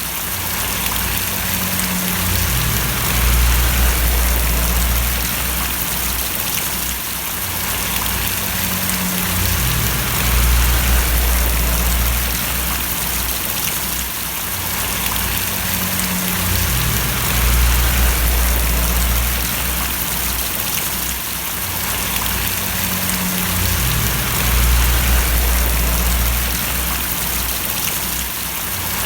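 Steady rain falling and splashing, a dense even hiss, with a deep low rumble underneath that swells and fades about every seven seconds.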